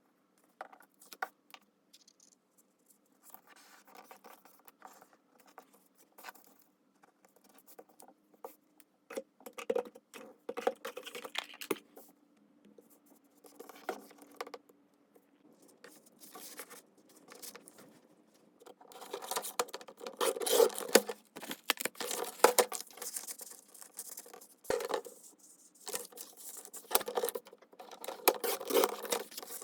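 Paper craft materials handled by hand: intermittent rustling, scraping and crinkling of paper, sparse and soft at first, then busier and louder over the second half.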